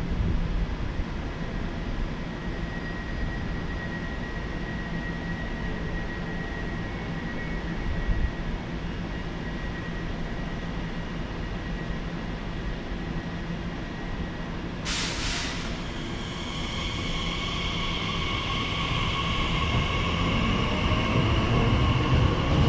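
A train at a station platform. A steady low rumble runs for the first part. About fifteen seconds in, a sudden rush of noise begins, then a hum of several steady high tones that grows louder toward the end as a train draws nearer.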